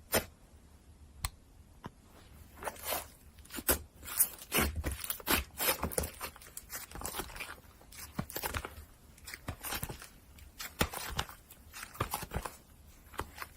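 Slime being worked by hand, giving off irregular crackling and popping. A sharp snap opens it and another comes about a second later, then a long run of quick crackles.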